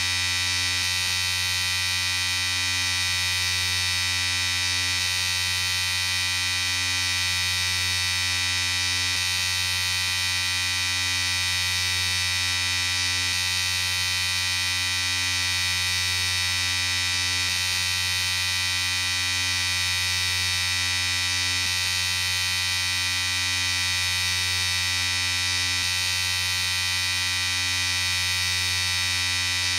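Electric shaver running with a steady, unbroken buzz.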